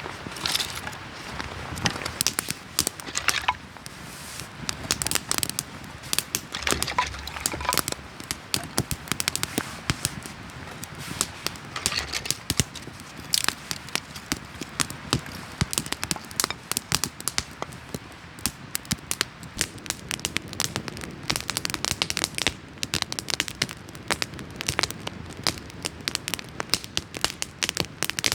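Wood campfire crackling, with sharp irregular pops several times a second over a low hiss.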